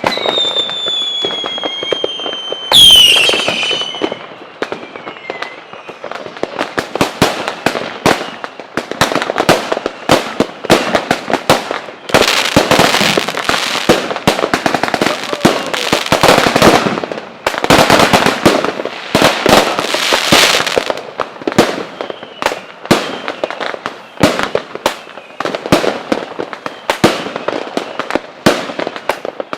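Fireworks display: whistles falling slightly in pitch at the start, and a loud bang about three seconds in. Then comes a long, dense run of rapid bangs and crackles, heaviest around the middle.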